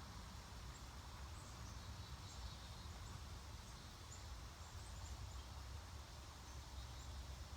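Faint background noise: a steady low rumble with scattered faint, short, high chirps, like distant small birds or insects.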